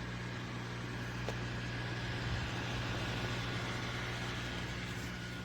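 Portable neck fan running steadily on high, the highest of its three speeds: a continuous whir of motor and rushing air.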